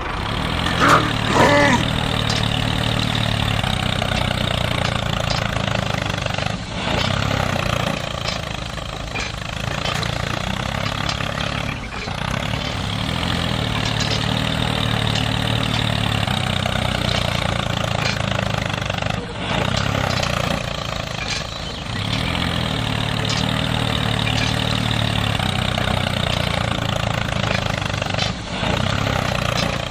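Tractor engine running steadily, cutting out briefly every several seconds. A short high rising-and-falling sound comes about a second in.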